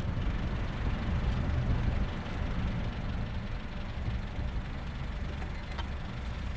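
Turbocharged Honda D16 four-cylinder engine idling steadily on one of its first starts after the build, a little louder in the first two seconds.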